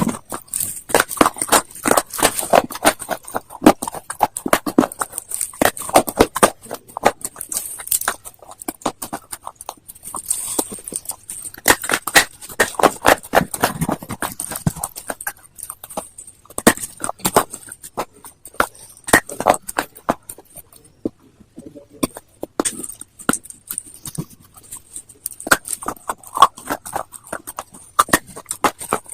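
A person biting and chewing hard slate stone, a dense, irregular run of sharp crunches and crackles that eases off briefly about two-thirds of the way through.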